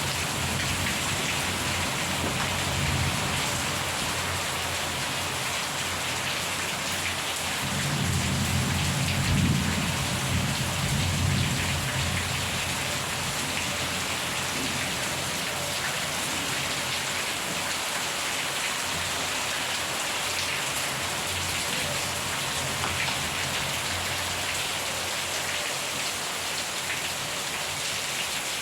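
Steady heavy rain pattering on surfaces, with low rolls of thunder: one dying away in the first few seconds and another rumbling up about a third of the way through.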